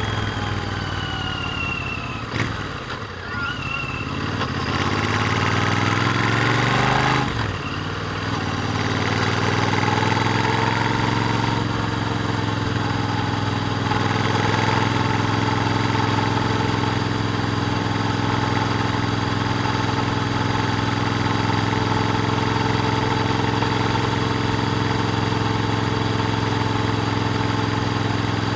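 Royal Enfield Interceptor 650's parallel-twin engine through its stock exhaust, heard on the move: revs falling for the first few seconds, then climbing, a brief sharp dip about seven seconds in, then running at steady revs.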